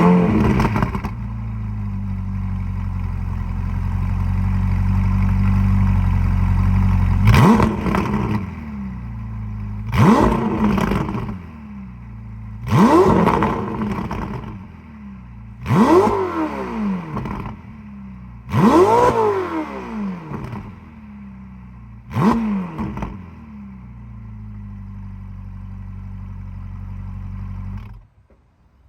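Straight-piped Ferrari 488 GTB's twin-turbo V8 idling, then revved six times, each blip rising sharply in pitch and falling back to idle. It settles to a steady idle and cuts off suddenly near the end.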